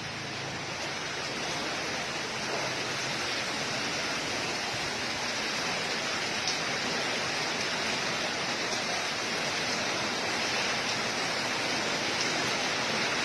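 Heavy rain pouring down in a steady, dense hiss that grows a little louder over the first few seconds.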